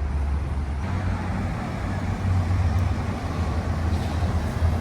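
Road traffic going by on a city street: a steady low rumble of car and truck engines and tyres.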